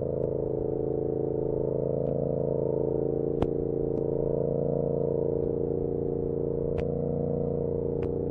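Yamaha R7's parallel-twin engine through an SC-Project CR-T exhaust, running at a steady cruise, heard from a recorder inside the rider's backpack. A few sharp clicks cut in, from the backpack straps slapping against the bag.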